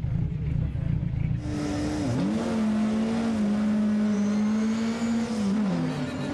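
A low rumble, then about a second and a half in, a Lada 2107 rally car's engine running hard: its pitch dips and recovers at a gear change about two seconds in, holds steady, and drops near the end as the revs fall.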